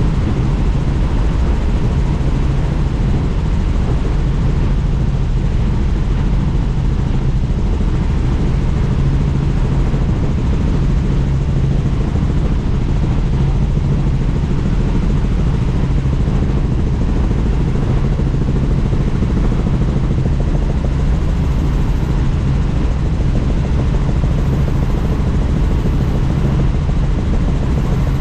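Helicopter in steady flight with the doors off: loud, even rotor and engine noise with the rush of open-door airflow, and no change in pitch or level.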